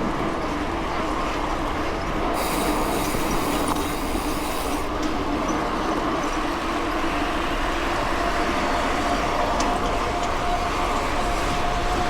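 Mountain bike rolling along a dirt road: a steady rumble of tyres on gravel and rattle from the bike, with a faint hum that shifts higher about eight seconds in. From about two to five seconds in there is a brighter hissing stretch.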